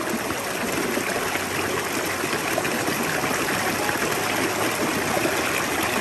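Shallow rocky stream running steadily over stones, an even rush of water that starts suddenly.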